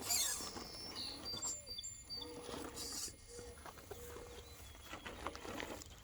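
Birds chirping in short high calls, over faint scratchy clicks and scraping.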